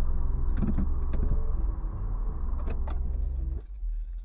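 2017 Nissan Rogue heard from inside the cabin: a steady motor hum with several sharp clicks, cutting off abruptly about three and a half seconds in, followed by a couple of clicks.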